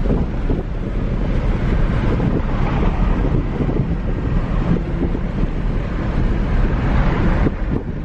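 Loud rumble and rush of a car driving, with wind buffeting the microphone.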